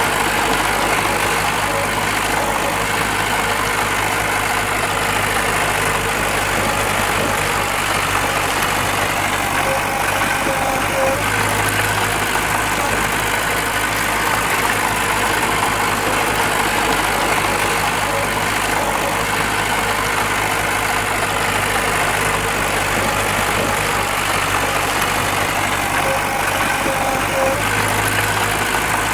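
Diesel engine of heavy earthmoving machinery running steadily at a low, idle-like speed, with no revving.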